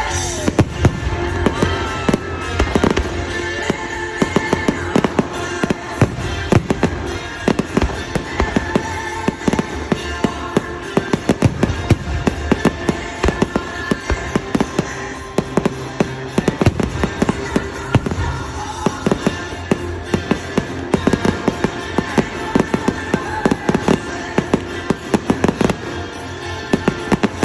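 Fireworks display going off continuously, a rapid stream of bangs and crackles, with music playing underneath.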